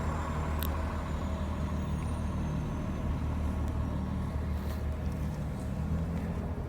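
Steady low rumble of an engine idling, an even hum with no change in pitch.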